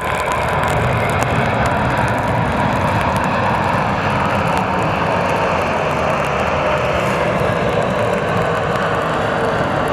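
Jet airliner engines running steadily: a broad rush of noise with a whining tone that drifts slightly lower near the end.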